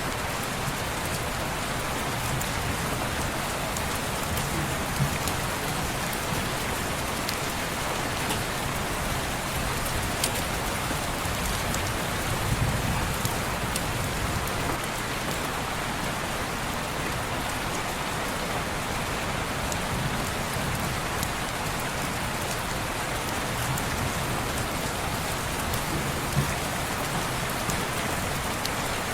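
Steady rain pattering on a window, with now and then a sharper drop ticking out of the even hiss.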